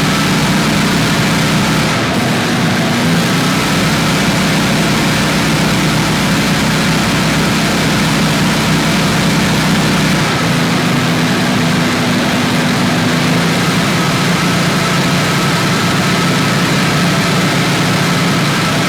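Briggs & Stratton 9.5 hp overhead-valve engine on a wheeled leaf blower running steadily at about mid throttle, with the blower fan's rushing noise over it; the engine note shifts slightly about ten seconds in.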